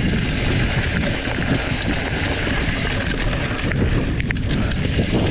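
Mountain bike rolling fast down a rough dirt trail: wind rushing over the microphone, with tyre rumble and the bike rattling over bumps, and a few sharp clicks about four seconds in.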